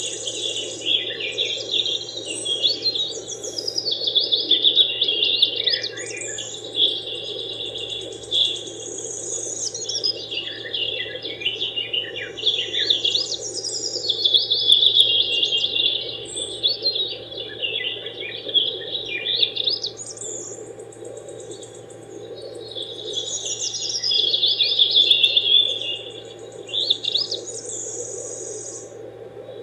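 Birds chirping and singing in rapid trilling phrases a few seconds long, coming and going over a steady low hum.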